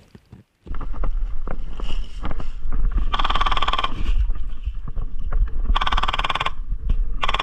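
Wind buffeting the microphone with a heavy rumble, broken by three short full-auto bursts from an airsoft electric gun, a rapid even rattle of shots with a whine over it. The bursts come about three seconds in, at about six seconds, and briefly near the end.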